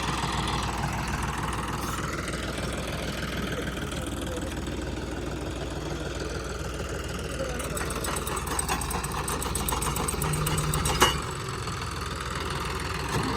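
Diesel engine of a John Deere 5405 tractor with a modified fuel pump, running steadily. A single sharp knock comes about eleven seconds in.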